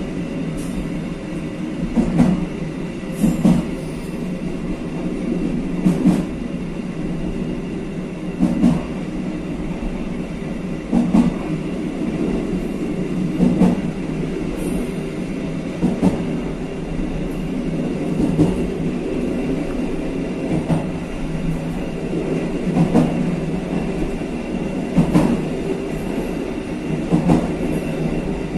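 KA Kaligung passenger train running along the line: a steady rumble of the wheels on the rails, with a clickety-clack knock over the rail joints about every two and a half seconds.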